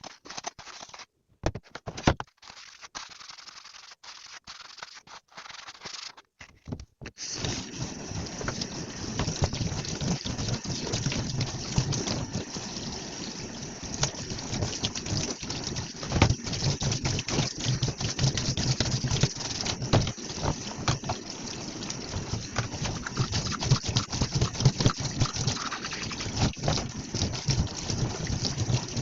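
Dishwashing at a kitchen sink: scattered clinks and knocks of dishes at first, then from about seven seconds in the tap runs steadily while dishes clatter under the stream.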